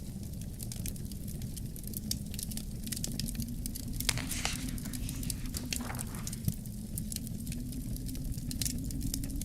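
Wood fire crackling in a fireplace, with frequent sharp pops, over a low steady wind rumble. There is a brief hiss about four seconds in.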